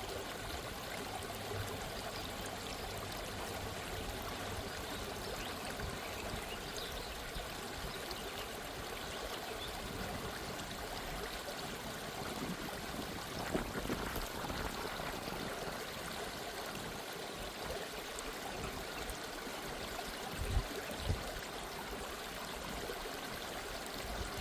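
Gently running stream, a steady rush and trickle of water. Two soft low thumps come close together about three-quarters of the way through.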